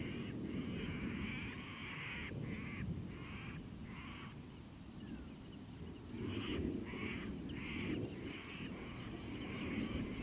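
Crows cawing over and over in two bouts, with a faint even high ticking about twice a second and a low rumbling noise underneath.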